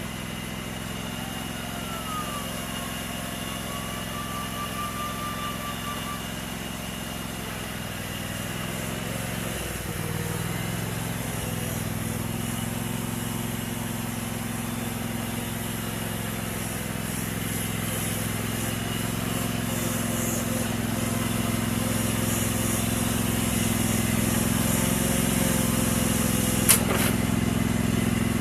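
A 22-horsepower riding lawn mower engine running steadily, its pitch shifting about ten seconds in and growing gradually louder, with one sharp click near the end.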